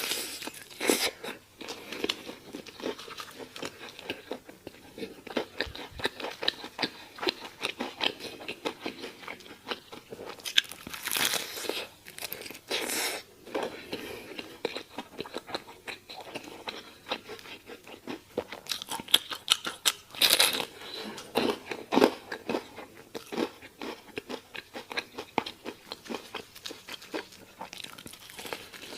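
Close-miked biting and chewing of crispy fried chicken: a steady run of small crackling crunches, with several louder crunchy bites along the way.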